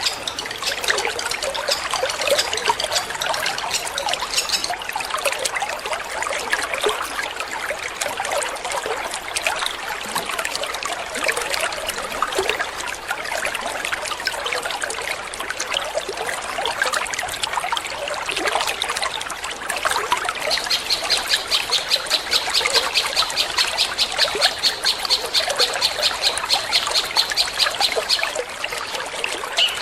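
Water trickling steadily throughout. About two-thirds of the way in, a long-tailed shrike (cendet) sings the fast 'petir' song for several seconds: a rapid run of evenly repeated high notes that then stops.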